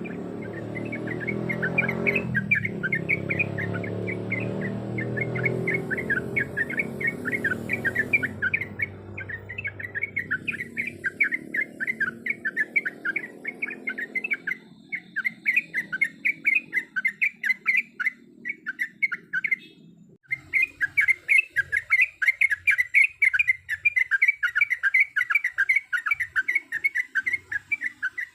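Yellow-vented bulbul (trucuk) chattering in a fast, unbroken run of short repeated chirps, several a second, with a brief pause about two-thirds of the way through. A low rumble underneath fades out over the first half.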